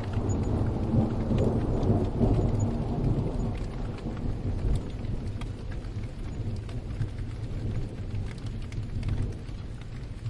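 A long roll of thunder swells in at the start, is loudest over the first few seconds, then rumbles on and slowly fades. Steady rain falls throughout, with small ticks of drops hitting a surface.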